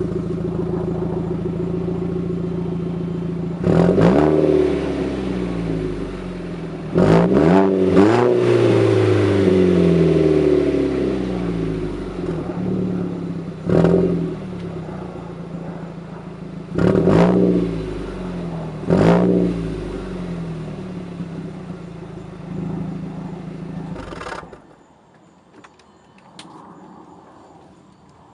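2001 Audi A4's 1.8-litre turbocharged four-cylinder, fitted with a straight-piped, resonated 2.5-inch mandrel-bent exhaust, idling and then revved in six quick blips, each falling back to idle. The engine shuts off about 24 seconds in.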